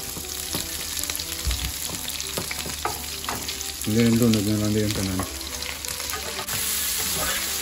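Garlic and onion frying and sizzling in a nonstick pan as chopped onion and tomato are scraped in from a plastic cutting board. There is a steady sizzle with scattered clicks of scraping and stirring.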